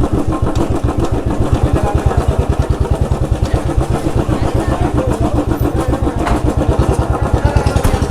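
Motorcycle engine running with a steady, rapid pulsing beat.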